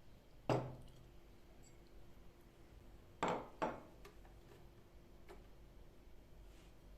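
Three sharp knocks of household items, like glass or dishes being set down: one about half a second in and two close together a little after three seconds, each with a short ring.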